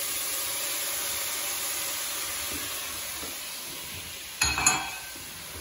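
Venison, onion and carrots sizzling steadily in a hot pan as the meat is scraped in from a bowl with a spatula. About four and a half seconds in, two quick sharp knocks, the loudest sound.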